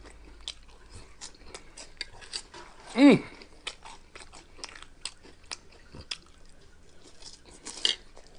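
Close-up chewing and crunching of Flaming Hot Cheetos nachos, with many short crisp crackles throughout and a louder crunch near the end. A brief hummed 'mm' of enjoyment about three seconds in.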